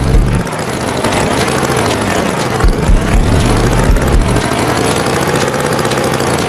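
Tractor engine running steadily, with a few low thumps.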